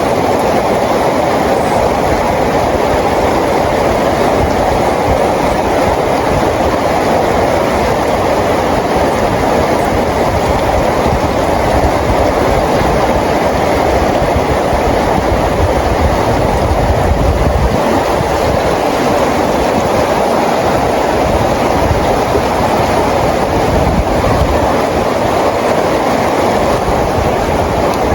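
Steady heavy rain, an even wash of noise with a shifting low rumble underneath.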